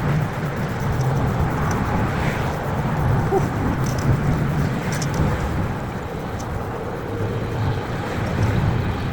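Wind and road noise rushing over the microphone of a moving bicycle, a steady low rumble that swells and fades, with a few faint ticks.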